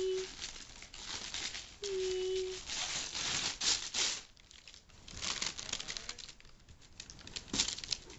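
Gift-wrapping paper being crumpled and torn as a present is unwrapped, in several irregular bursts of rustling.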